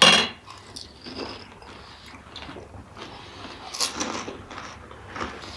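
Close-up chewing of mouthfuls of pani puri: the crisp puri shells crunch and crackle in irregular small clicks, with a sharper crunch about four seconds in.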